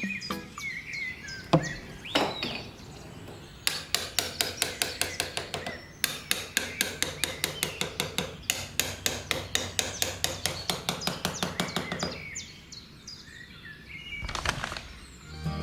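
Hammer tapping on wood in quick, even strokes, about four taps a second, in runs lasting several seconds.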